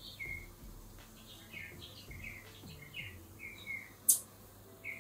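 Small birds chirping, a steady run of short high calls, with one sharp click about four seconds in.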